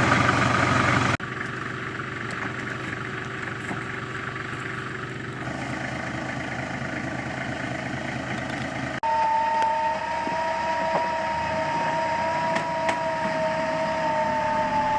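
4WD engine running, then, from about nine seconds in, a recovery winch's motor whining steadily as it pulls the Land Cruiser up a rocky step. The sound changes abruptly about a second in and again at nine seconds.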